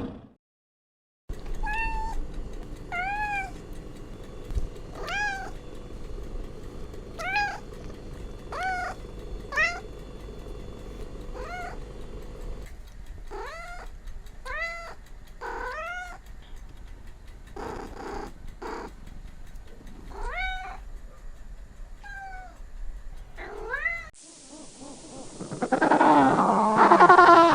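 A cat meowing over and over, about one rising-and-falling meow a second. Near the end a louder, dense jumble of a different sound takes over.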